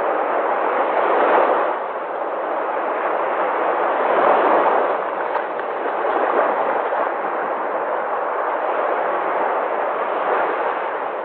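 Sea waves breaking and washing: a continuous rush of surf that swells and eases, with the loudest surges about a second and about four seconds in.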